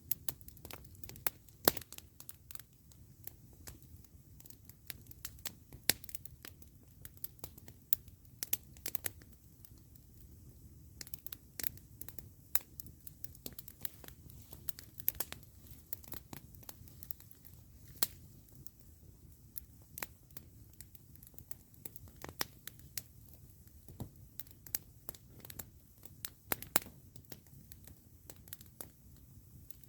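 Campfire crackling: burning wood giving off irregular sharp pops and snaps over a low steady rumble.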